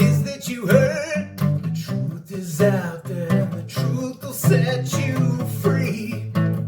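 Guitar strummed in a steady rhythm with a voice singing over it.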